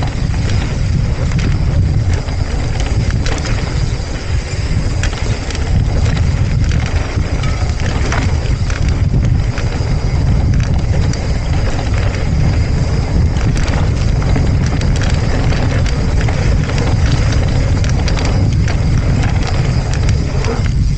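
Mountain bike speeding down a gravel fire road: heavy wind rumble on the microphone, with the tyres crunching over gravel and the bike rattling over bumps in many small clicks.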